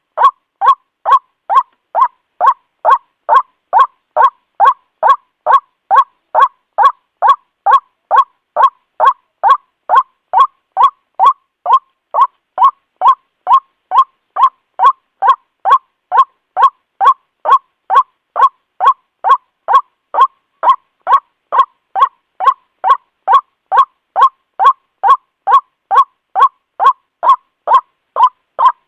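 White-breasted waterhen calling, a loud ruak note repeated steadily about twice a second.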